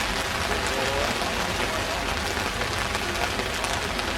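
Steady, hissing water noise of heavy rain and fast-flowing floodwater.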